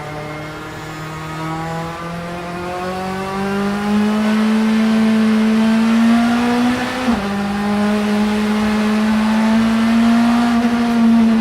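Vauxhall Vectra supertouring race car engine pulling hard under acceleration, its pitch climbing steadily. About seven seconds in, a quick upshift drops the pitch sharply. The note then climbs again and begins to fall away near the end as the driver eases off.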